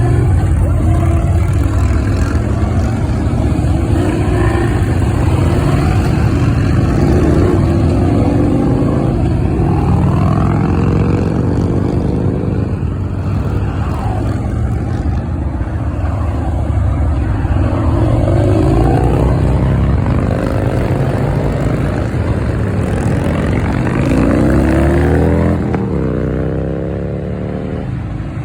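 Motorcycle engines running and revving, one after another, their pitch repeatedly rising and falling over a steady low engine rumble; the sound eases a little near the end.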